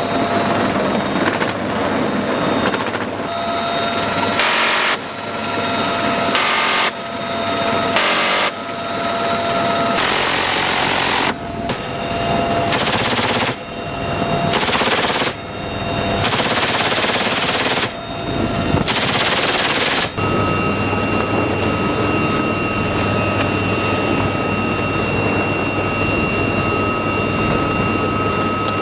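Machine-gun bursts fired from a UH-1Y Venom helicopter gunship, about eight of them, each half a second to two seconds long, over the steady drone of the helicopter's turbines and rotor. The firing stops about two-thirds of the way through, leaving the helicopter's drone alone.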